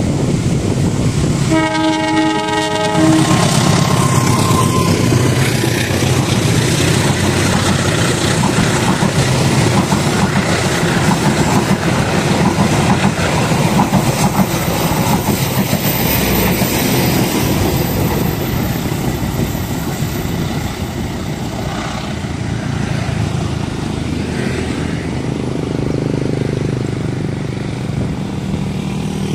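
CC 201 diesel-electric locomotive hauling a passenger train: one horn blast about two seconds in, lasting about a second and a half, then the locomotive and coaches running past with the steady noise of wheels on rail.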